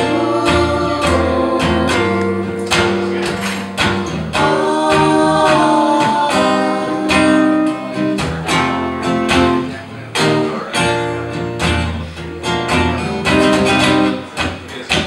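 Live acoustic guitar strumming in an instrumental break of a folk-pop song, with sustained pitched notes over a regular beat.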